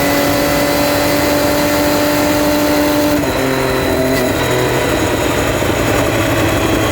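2011 Triumph Street Triple R's 675 cc inline-three engine running at steady revs, then about three seconds in the revs drop and settle lower, toward idle.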